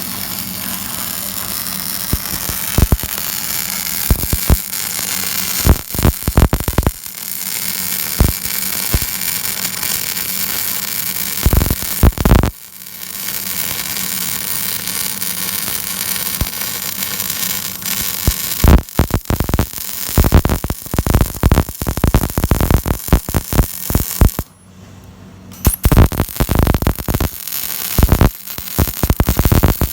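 Electric arc welding from a single-phase 220 V welding machine: a steady sizzling hiss over a mains hum, with frequent sharp crackles, briefly stopping about twelve seconds in and again for about a second near twenty-five seconds as the arc breaks and is struck again.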